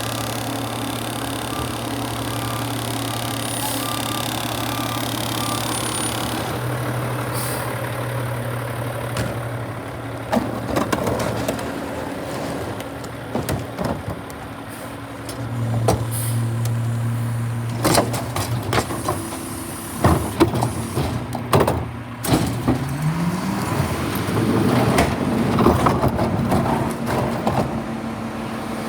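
Garbage truck engine running steadily with a high whine over it, then a string of metal clanks and bangs, with the engine pitch rising near the end as it revs.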